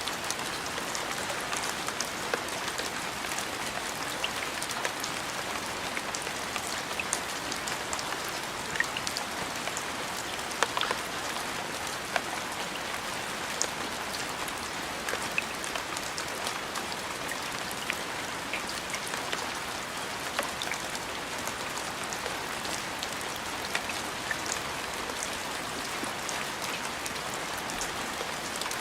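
Steady rain falling, with a constant hiss and many distinct drops striking a surface.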